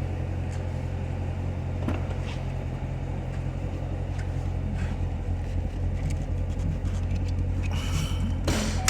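2017 Corvette Grand Sport's 6.2-litre LT1 V8 idling steadily, with a brief rushing noise near the end.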